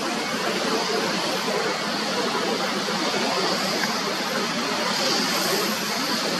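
Jet airliner engines giving a steady rushing roar, with a hissing upper edge that swells near the end.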